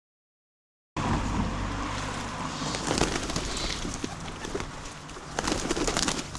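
Dead silence for about the first second, then pigeons cooing against a low steady hum, with scattered sharp clicks and rustles, a cluster of them near the end.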